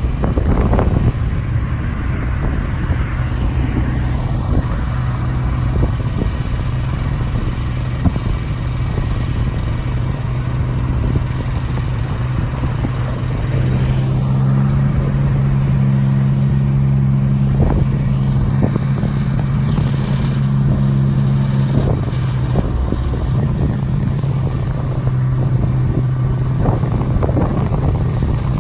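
Kubota three-cylinder pony motor running steadily, driving the bucket truck's boom hydraulics. About halfway through, its tone grows louder and fuller for several seconds, as under added hydraulic load, then settles back.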